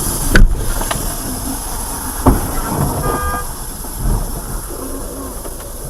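Vehicle running with steady road noise, two sharp knocks in the first half and a brief high tone about three seconds in.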